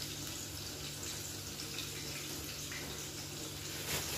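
Tempeh slices frying in hot oil in a wok, a steady sizzle, with a light knock near the end.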